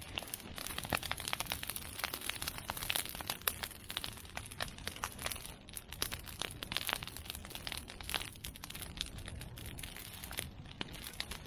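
Large bonfire of cut bamboo and chestnut prunings crackling and popping densely, with sharper snaps standing out now and then.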